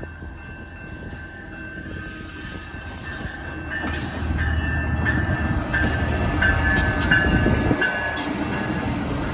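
Amtrak passenger train approaching and passing, its low rumble growing steadily louder to a peak about seven seconds in. A thin, high ringing from the wheels on the rails runs through it, and a few sharp clicks come near the peak.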